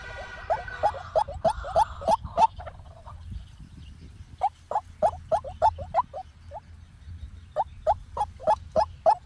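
White-breasted waterhen calling: runs of short, sharp, downward-sliding notes, about four a second, in three bursts separated by brief pauses.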